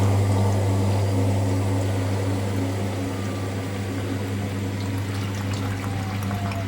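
Washing machine running with a steady low hum and water rushing through it, as when its pump is working. A faint falling whine comes in near the end, with a few light ticks.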